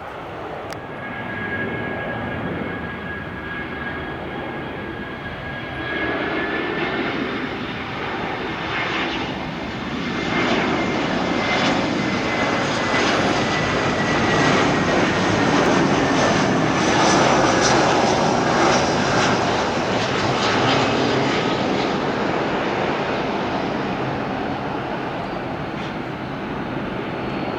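Airbus A319's twin CFM56-5B turbofan engines on a landing pass: a jet roar with a high fan whine that grows louder and peaks past the middle, the whine sliding down in pitch as the aircraft goes by.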